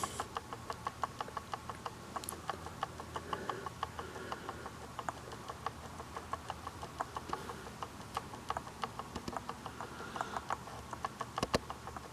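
Rapid light ticking, about four clicks a second, with one sharper click near the end.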